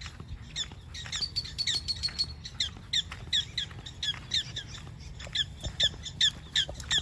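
Prairie dogs barking: a rapid string of short, high chirping calls, each dropping in pitch, about two or three a second.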